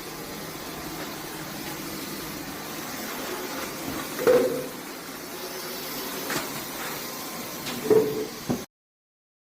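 Dyson V12 Origin cordless stick vacuum running steadily, with a louder bump a little past halfway and another near the end.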